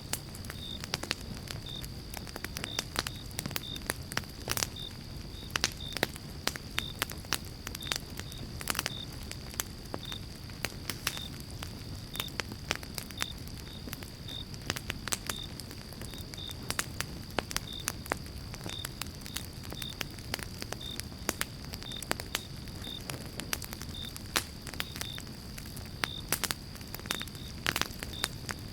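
Campfire of pine logs burning, crackling and popping irregularly over a low steady hiss of the flames. A faint, thin, steady high tone runs behind it, with short high chirps about once or twice a second.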